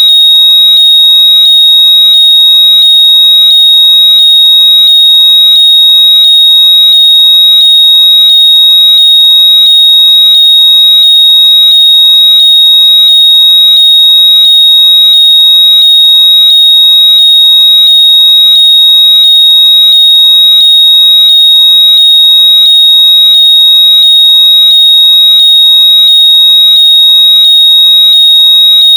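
Very loud, steady high-pitched electronic tone, with faint rising chirps repeating about twice a second beneath it: a locator noise made to be played through lost earbuds so they can be heard and found.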